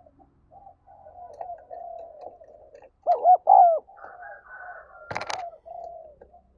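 Spotted dove cooing, a run of low notes, loudest in a pair of swooping coos about three seconds in. A sharp click sounds a little after five seconds.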